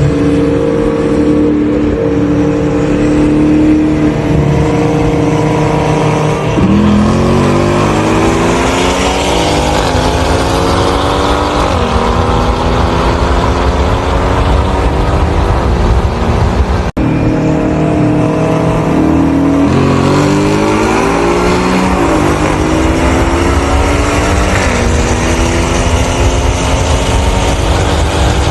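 Performance car engines holding steady, then going to full throttle with the revs climbing and dropping back at several gear shifts. After a sudden break about halfway, a second run does the same: steady, then climbing through the gears.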